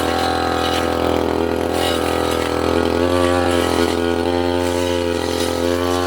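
Two-stroke brush cutter engine running at high speed while cutting brush, its pitch wavering and dipping briefly a few times as the blade meets growth.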